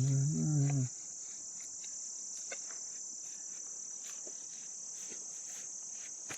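Steady, unbroken high-pitched chirring of insects, typical of crickets. A man's voice sounds for about the first second, and faint scattered clicks follow.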